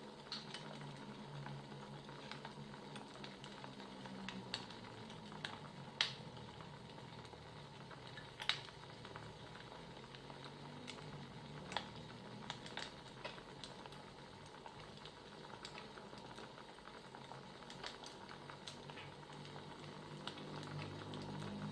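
Wood fire crackling, with scattered irregular pops and snaps, a few louder than the rest, over a steady low hum.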